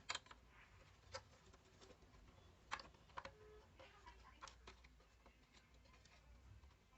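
Near silence broken by a few faint, sharp clicks and taps at irregular intervals, about five of them in the first four and a half seconds.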